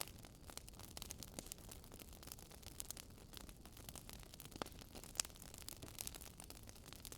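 Wood fire crackling faintly: irregular sharp pops and ticks over a soft low hiss, with two louder pops about four and a half and five seconds in.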